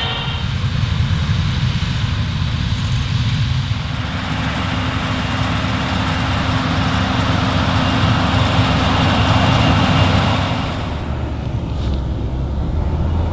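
Large agricultural diesel engine running steadily under load, a low engine note under a wide mechanical hiss. About eleven seconds in the hiss drops away and a deeper engine note carries on.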